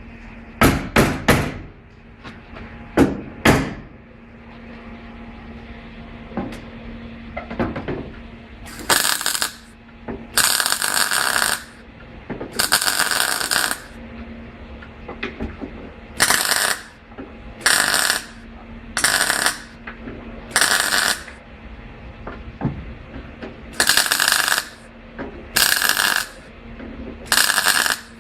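A few sharp knocks, then a pneumatic impact wrench running in about ten short bursts of up to a second and a half each, over a steady low hum.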